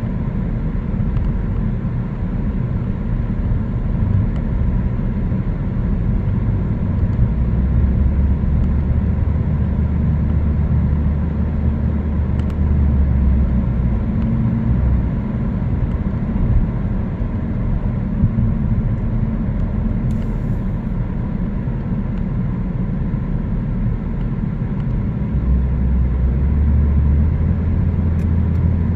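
A car driving along a road: steady engine and tyre rumble. A deeper low drone swells for several seconds before the middle and again near the end.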